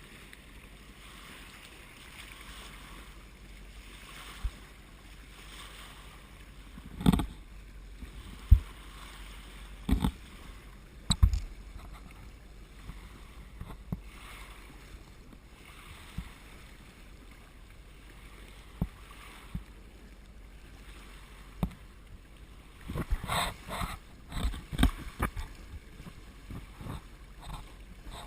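Water rushing steadily along a sailboat's hull, swelling and easing with the swell, broken by occasional sharp knocks and thumps, with a cluster of them near the end.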